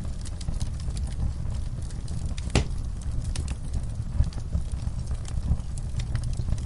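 Wood fire in a fireplace crackling: scattered sharp pops and snaps over a steady low rumble, with one louder pop about two and a half seconds in.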